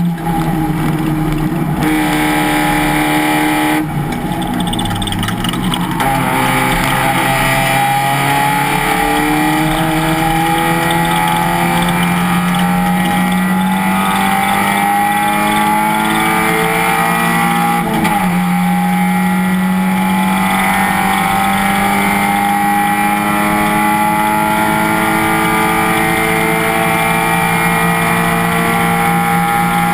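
Race car engine under racing load, its pitch dipping briefly early on, then climbing steadily under acceleration, dropping sharply at an upshift about eighteen seconds in, and climbing again.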